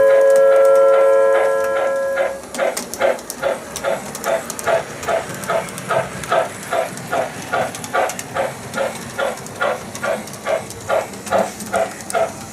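Loco-Sound speaker of an MTH RailKing O-gauge Pennsylvania 6-8-6 steam turbine model locomotive. A steam whistle blows for about two seconds, then the locomotive chuffs steadily with hiss, about two to three chuffs a second.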